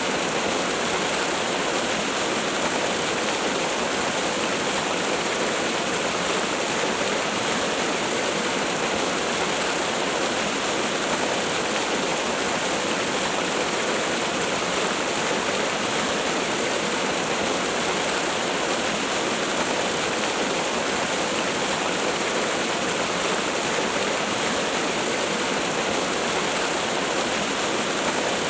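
Waterfall: a steady, unbroken rush of falling water with no pauses or separate splashes.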